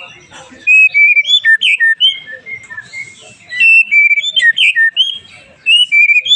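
White-rumped shama singing loud, clear whistled phrases of varied short notes and slurs, in bursts of one to two seconds with brief pauses between them.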